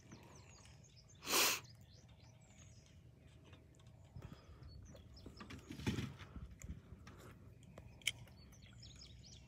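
Small birds chirping faintly in the background, with a brief rush of noise about a second in, a low bump around six seconds and a single sharp click near the end.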